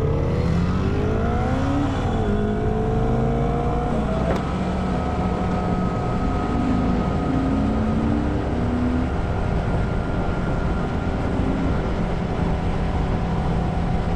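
Motorcycle engine pulling away, rising in pitch, with a gear change about two seconds in and a second rise. It settles into a steady cruise after about four seconds.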